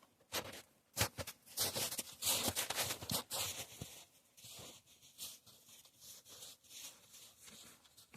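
Dry straw bedding rustling and scraping as it is handled and spread, a busy string of irregular crunches that thins out about halfway through.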